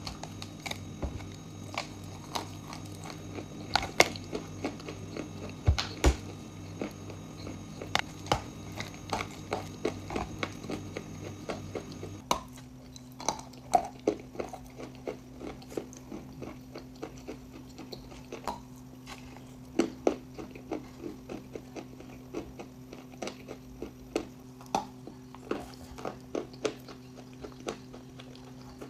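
A person biting and chewing crunchy edible chalk and clay close to the microphone, with many sharp crunches over a low background hum. The hum changes suddenly about twelve seconds in.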